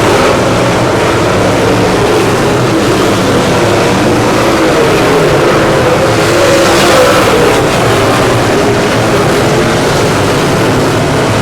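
Dirt late model race car engines running hard and steadily, the pitch wavering slightly, with a small swell about two-thirds of the way through.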